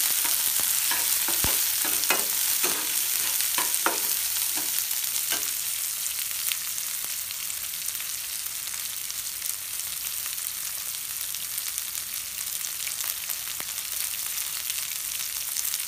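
Chopped onions, dried red chillies and dals sizzling in groundnut oil in a non-stick frying pan on low heat, with a spatula scraping and stirring through them for the first six seconds or so, then a steady sizzle.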